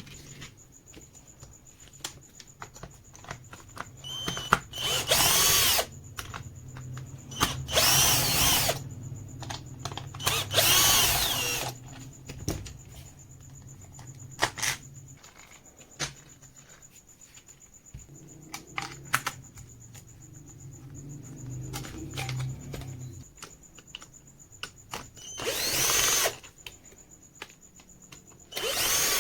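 Electric drill run in short bursts, about five times, each time its motor whining up to speed and winding down, with clicks and handling knocks in between. A low hum sits underneath and stops about two-thirds of the way through.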